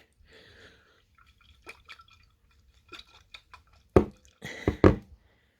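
Soapy water sloshing and swirling inside a glass bottle as it is rotated by hand, in short irregular splashes, with two louder sloshes about four and five seconds in.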